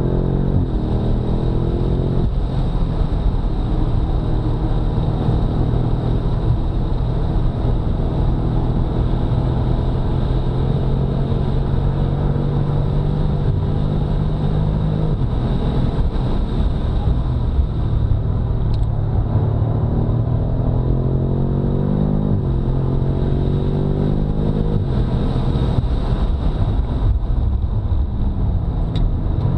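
BMW F90 M5's 4.4-litre twin-turbo V8 driven hard on a race track. Its pitch climbs under acceleration and drops sharply at gear changes about two seconds in and again around 22 seconds. It falls away over the last few seconds as the car slows, then climbs again right at the end, over steady road and wind noise.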